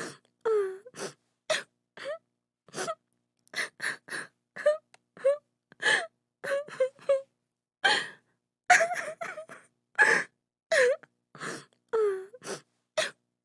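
A woman crying: a quick run of short gasping sobs and whimpering wails, many sliding down in pitch, with gaps of silence between them.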